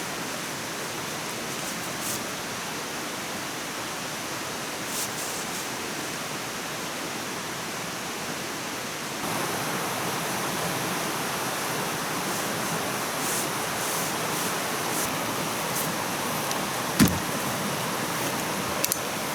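Steady outdoor rushing noise, like flowing water or wind. It gets a little louder about halfway through, and there are a few faint clicks and one sharp knock near the end.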